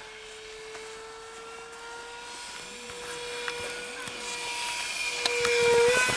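RC model glider's motor running at full throttle in flight: a steady whine whose pitch edges slowly upward and which grows louder near the end as the plane comes closer.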